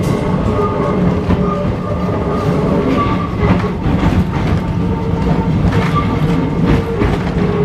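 Ex-Melbourne W2-class tram running on its track: a steady rumble with a few held tones, and repeated clicks of the wheels over rail joints.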